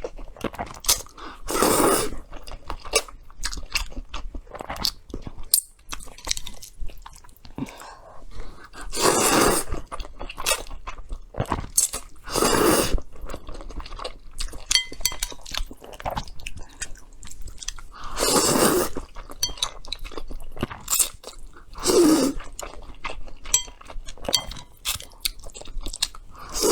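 Close-miked eating of salted egg yolk noodles: steady chewing and small mouth clicks, with about six louder bursts of roughly a second each, spread through.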